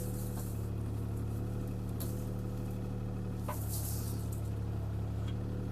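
CAT 303C CR mini excavator's diesel engine running steadily under the operator, with brief hissing twice and a single click about three and a half seconds in as he works the machine against a tree limb.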